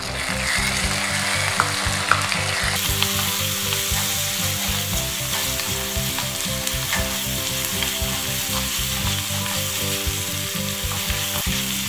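Chopped tomato, onion and garlic sizzling steadily in hot sesame (gingelly) oil in a clay pot, stirred with a wooden spatula with faint scraping clicks.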